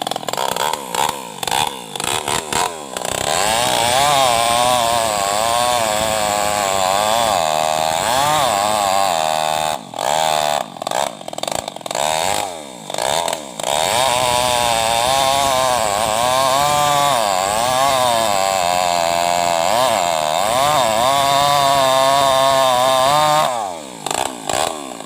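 Tuned-up New West 588 two-stroke chainsaw cutting into a mahogany trunk. It blips the throttle for the first few seconds, then runs at high revs with the pitch wavering under load. It drops back briefly twice around the middle and falls off near the end.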